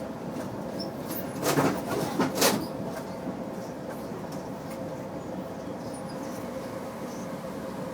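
Steady hum inside a passenger train car, broken by two short, loud squeaks or rattles about a second and a half and two and a half seconds in.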